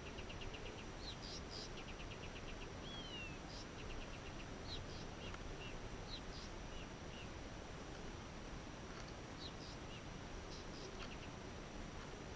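Faint bush ambience at dusk: small birds calling, with a few short, rapid trills in the first four seconds and scattered chirps after, over a steady low background hiss.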